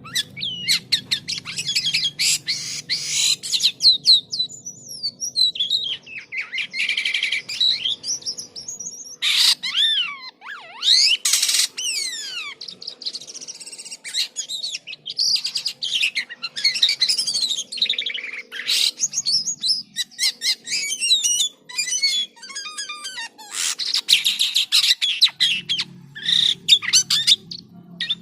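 Jalak kapas starling singing vigorously: a long, varied run of whistled glides, rapid trills, sharp clicks and harsh squawky notes in quick succession.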